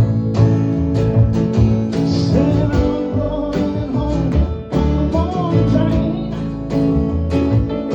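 Acoustic guitar played live, picked and strummed in a steady blues rhythm.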